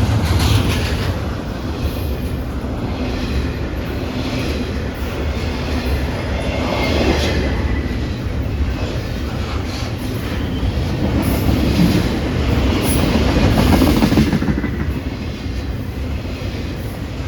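Freight cars of a CPKC train rolling past at close range, a steady rumble of steel wheels on rail.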